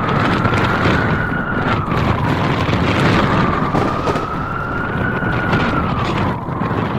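Blizzard wind howling: a whistling tone that slowly rises and falls, twice, over a loud rushing roar.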